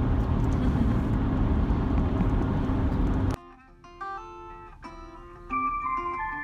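Steady road and engine noise inside a moving car's cabin, cut off suddenly about three seconds in by background music of plucked guitar notes.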